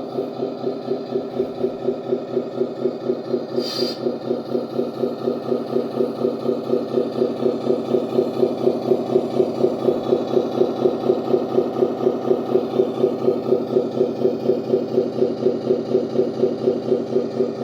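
Simulated Scania V8 engine sound from the RC truck's Servonaut SM3 sound module, idling through its loudspeaker with a steady, even pulse of about four beats a second that grows slightly louder partway through. A short hiss sounds a little under four seconds in.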